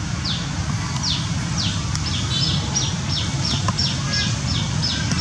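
A bird calling a series of short, high notes that each fall in pitch: a few spaced notes, then a quicker run of about three a second from around two seconds in, over a steady low rumble.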